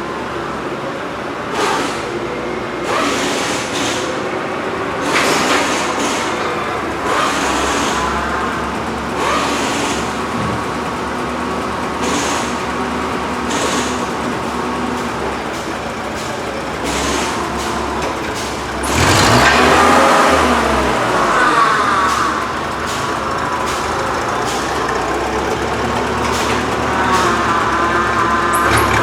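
A motor vehicle's engine running, rising and falling in pitch, with scattered knocks; it is loudest for a few seconds about two-thirds of the way in.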